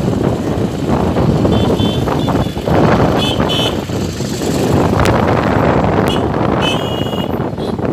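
Loud, continuous outdoor vehicle noise with short, high-pitched toots sounding several times, mostly in the second half.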